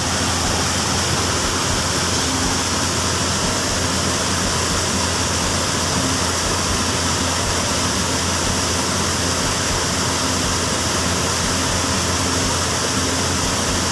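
Steady rushing of flowing river water, an even noise that holds without a break.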